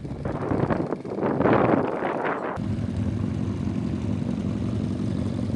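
Motorcycle engine noise: a rough, louder stretch of engine sound, then after an abrupt change about two and a half seconds in, a steady low engine drone.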